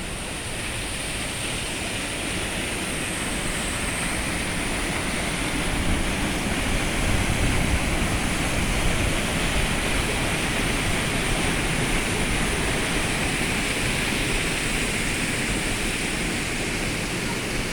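A waterfall's steady rush of falling water, growing somewhat louder over the first few seconds and then holding even.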